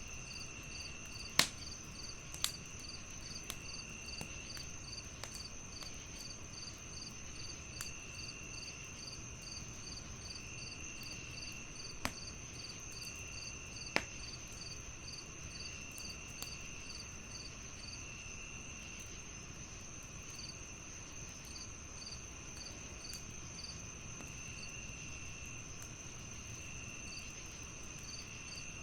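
Crickets chirping in layers: a continuous high trill, a chirp repeating about twice a second, and a lower trill that comes and goes. Under them a fireplace crackles softly, with a few sharp pops; the loudest come about a second and a half in and near fourteen seconds.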